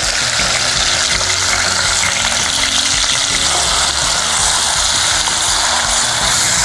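Wet ground masala paste sizzling in hot oil and fried onions in a steel kadai as it is poured in and then stirred with a wooden spatula: a steady, dense hiss of frying.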